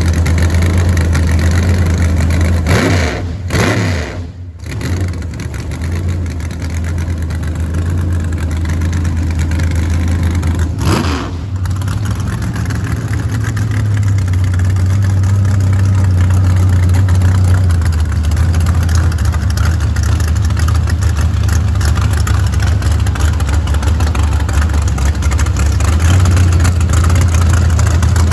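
A vehicle engine running at a loud, steady idle, with two brief changes of pitch about three and about eleven seconds in.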